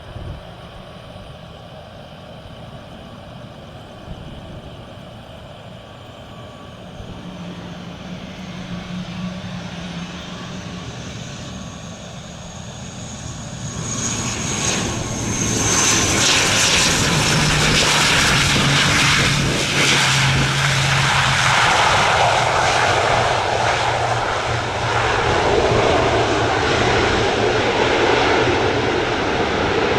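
Aircraft engines growing steadily louder as the plane approaches, with a high whine that drops in pitch about fifteen seconds in as it passes close, then a loud steady engine noise.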